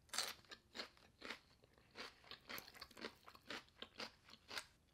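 Close-mouth chewing of a crunchy bite of poke bowl with raw yellow bell pepper: a quick, irregular run of small crisp crunches, about three or four a second.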